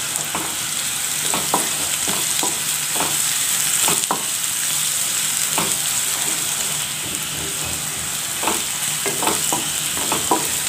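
Chopped onions and curry leaves sizzling in hot oil in a non-stick wok with a steady hiss, stirred with a wooden spatula that scrapes and knocks against the pan now and then, more often near the end.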